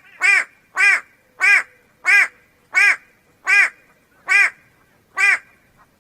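White-bellied go-away-bird calling: a run of about eight loud calls, each rising then falling in pitch, coming a little further apart as the run goes on.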